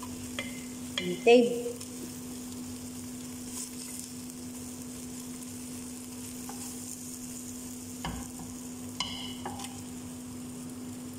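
Food pieces sizzling and frying in oil in a large aluminium pot as the cooking liquid dries off, stirred with a wooden spatula, with a few brief knocks of the spatula against the pot. A steady low hum runs underneath.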